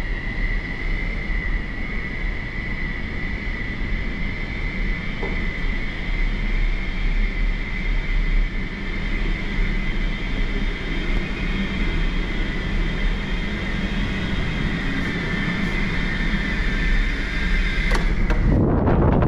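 A steady mechanical drone: a low rumble with a constant high whine over it. Near the end it cuts to wind buffeting the microphone.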